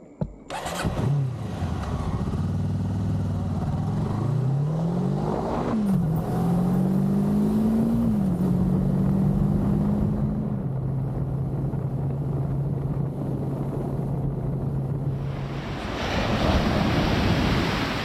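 Honda CB500 motorcycle engine pulling away: after a click, it rises in pitch, drops at a gear change about six seconds in, rises again and then settles into a steady cruise. Near the end a steady rush of wind noise takes over.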